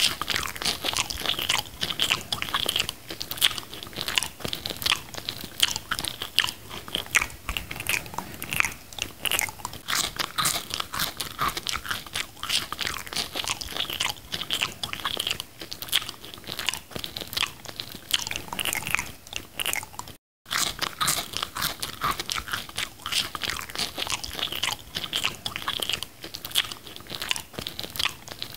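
Close-up biting and chewing of McDonald's french fries, a dense run of short crunching clicks. The sound cuts out for a moment about twenty seconds in.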